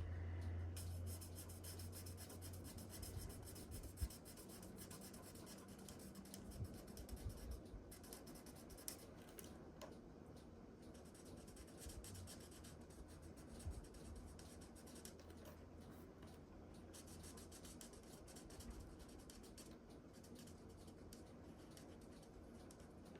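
Faint rubbing and scratching of a marker nib colouring on cardstock, with a few soft clicks.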